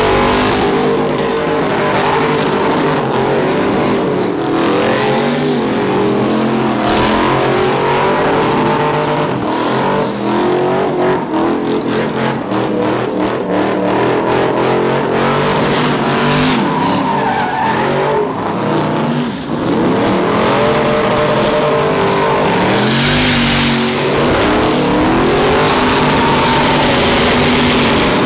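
Performance car engines revving hard, the pitch climbing and dropping again and again, with a rapid stuttering stretch near the middle.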